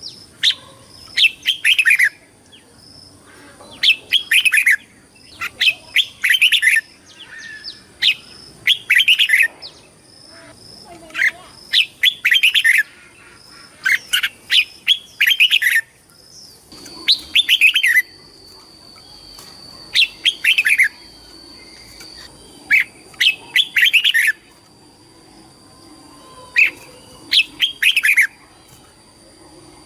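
Red-whiskered bulbul singing: short, bright warbling phrases repeated about every two seconds, with brief pauses between them.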